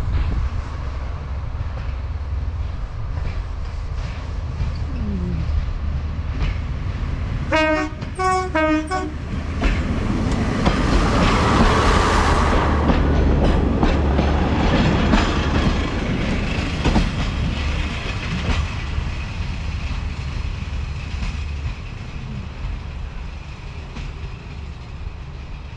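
Diesel Pacer train (Class 141) sounding a rapid run of short horn toots about eight seconds in, then running past, its noise swelling and fading, with a steady low rumble of wind on the microphone.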